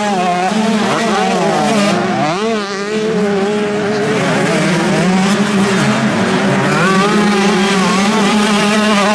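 Several motocross bike engines racing, their notes repeatedly rising and falling as riders rev through the gears and back off.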